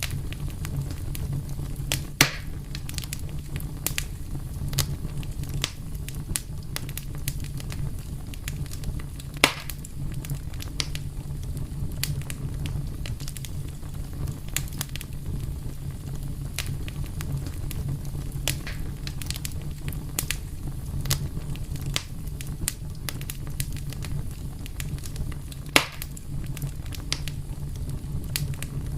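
Wood fire crackling steadily over a low rumble, with frequent small snaps and three louder sharp pops, about two seconds in, near the middle and near the end.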